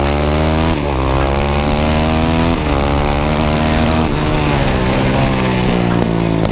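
Supermotard motorcycle engine being ridden hard, its pitch climbing and dropping back about four times as it pulls through the gears.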